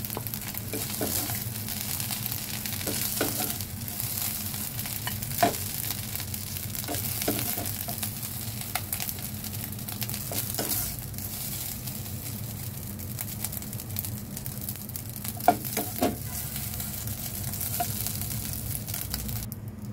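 Fried rice sizzling in a hot non-stick pan while a spatula scrapes and scoops it out onto a plate, with scattered short knocks of the spatula on the pan.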